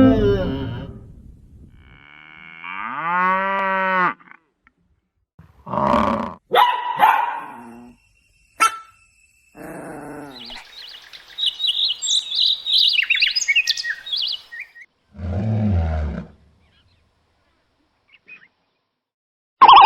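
Several different animal calls in turn, separated by short silences: a drawn-out pitched call, a few short calls, a long run of high chirps, and a short low call.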